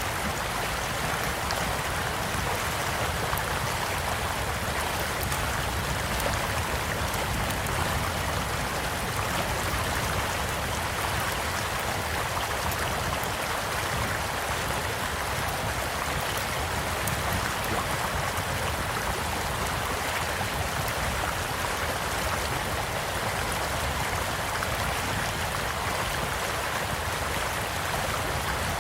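Small stream flowing steadily, with a few faint scattered crackles from a campfire burning beside it.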